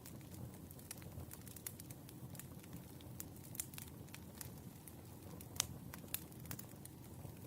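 Firewood burning: irregular sharp crackles and pops over a low steady rumble, with one louder pop about five and a half seconds in.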